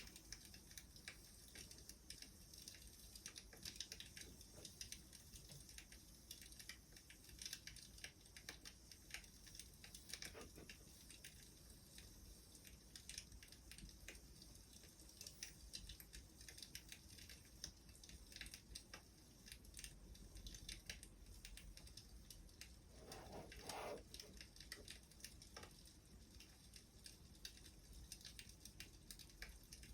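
Wood fire crackling faintly, with a constant scatter of small irregular pops and snaps. A slightly fuller, softer sound comes twice, about ten seconds in and again near the twenty-four-second mark.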